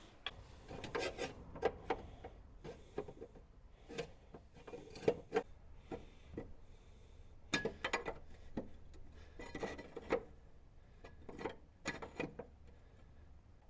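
Irregular metal scrapes and light knocks as a small sheet-steel repair patch is trimmed, handled and test-fitted into the car's chassis rail.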